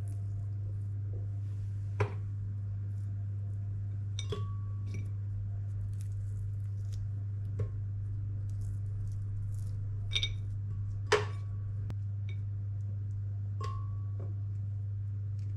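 Dishes and utensils clinking: about six separate knocks and clinks of glass and crockery, a few leaving a short ringing tone, the loudest about eleven seconds in. A steady low hum runs underneath.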